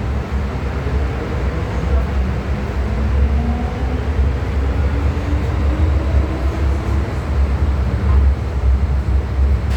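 MTR M-Train electric multiple unit running between stations: a steady low rumble of wheels on track. Partway through, a faint motor whine rises in pitch as the train picks up speed.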